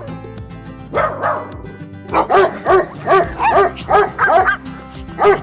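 A dog barking: one longer call about a second in, then from about two seconds in a fast run of short, sharp barks, about three a second, over background music.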